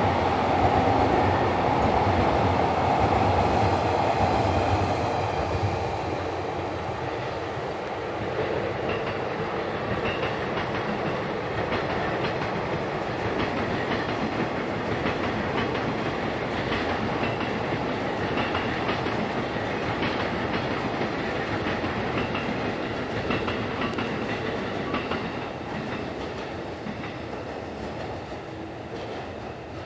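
JR East Series 189 electric train passing on the main line, its wheels clacking over the rail joints. It is loudest in the first few seconds, with one louder bang about five seconds in, then fades steadily as the train pulls away.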